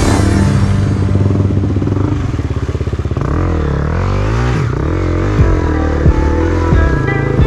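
Trail motorcycle engine running and revving, its pitch rising and falling through the middle of the stretch, with a few short knocks toward the end.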